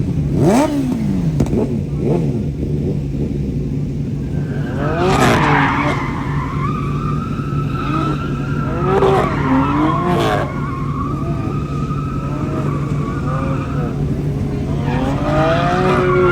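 Car engine revving hard, then tyres squealing in a drift from about four seconds in, with the revs rising and falling through the slide and the squeal swelling again near the end.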